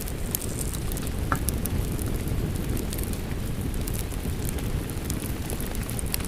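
Wood fire crackling, with scattered sharp pops, over a steady wash of rain.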